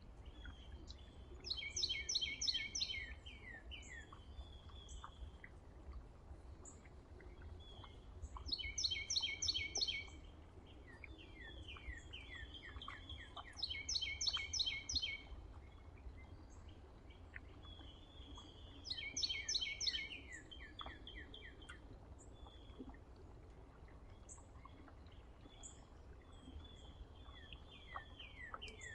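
A songbird singing the same short, fast phrase of repeated notes four times, about every five to six seconds, with softer chirps from birds in between. A low, steady rumble of outdoor background noise lies under it.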